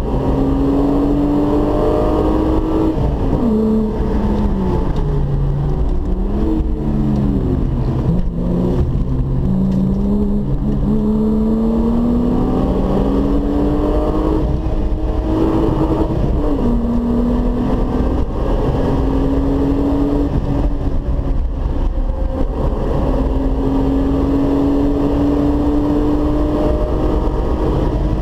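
Volkswagen Golf 3 VR6's V6 engine under hard acceleration, its note climbing with the revs and dropping back sharply at each gear change, over steady road and wind noise.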